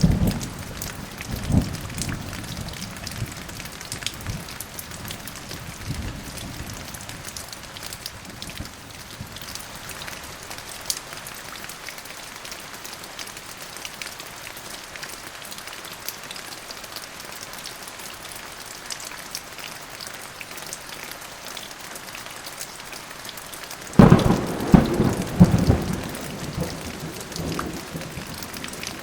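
Thunderstorm: steady rain falling, with thunder rumbling at the start and a sudden loud thunderclap near the end that rolls for a couple of seconds before dying back into the rain.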